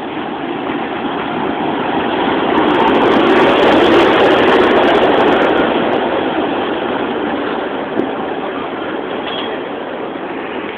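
An express passenger train rolling past on the rails: a steady noise of wheels and coaches that swells to its loudest about four seconds in and then slowly fades.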